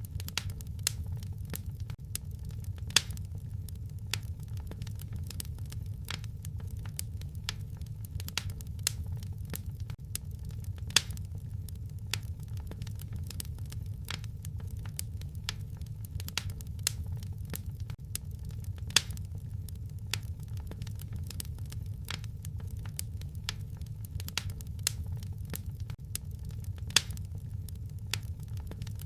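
Wood fire crackling in a fireplace: a steady low rumble of flames with frequent small snaps and pops, and a sharper, louder pop about every eight seconds.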